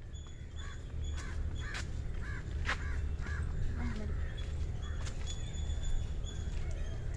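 A run of short, repeated bird calls over a steady low rumble, with a couple of sharp clicks a couple of seconds in.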